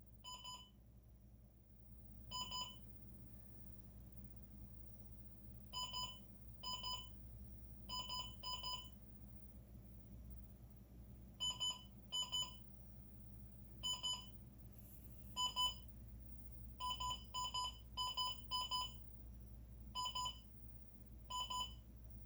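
Printer giving short electronic beeps, about twenty in all, irregularly spaced, singly and in quick pairs, over a steady low hum: the noise problem the printer is having.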